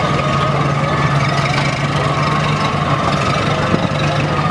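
Car engines idling as the cars roll slowly past, a steady low rumble with a steady higher tone above it.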